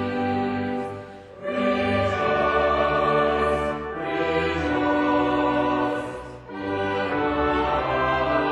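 A choir and string orchestra performing a slow piece in held chords, with two brief breaks between phrases, about a second in and about six seconds in.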